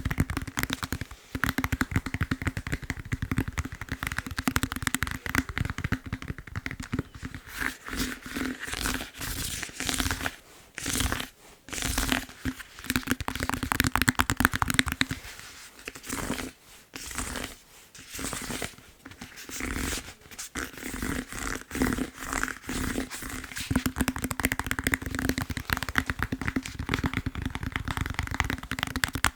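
Fast tapping on a foam massage roller: a dense run of quick taps, breaking off briefly a few times around the middle.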